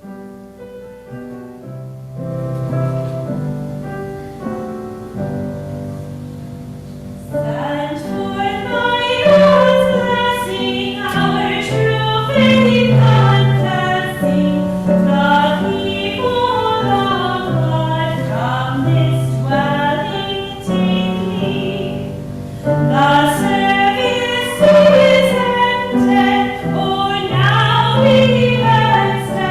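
A hymn: a keyboard introduction of sustained chords, then a group of voices starts singing along with it about seven seconds in.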